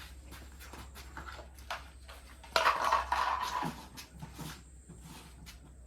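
A loud animal call lasting about a second, a little past halfway, among light scattered knocks and clicks.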